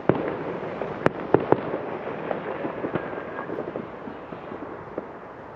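Fireworks going off: a quick run of sharp bangs in the first second and a half over continuous crackling, which gradually dies down.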